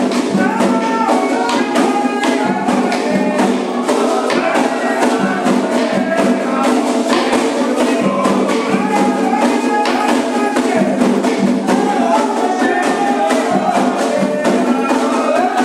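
Group singing a Candomblé chant in call-and-response style over fast, steady hand percussion with a jingling, shaker-like rhythm.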